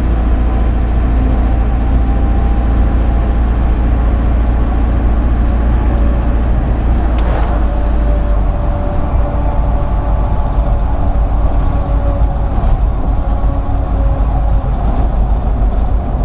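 Steady low rumble of a vehicle's engine and tyres, heard inside the moving cabin, with a brief knock about seven seconds in.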